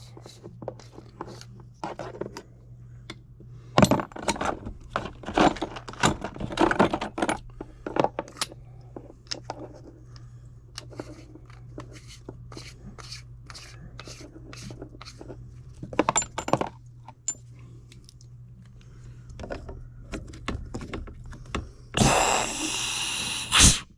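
Small metal parts and tools handled with clicks and scrapes, then near the end a loud hiss lasting about a second and a half: a CO2 drain gun blowing out an HVAC condensate drain line to clear a clog.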